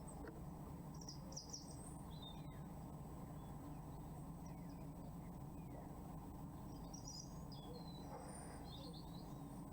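Small birds giving short, high chirps a few times: once about a second in, and again in a cluster near the end. A steady low hum runs underneath.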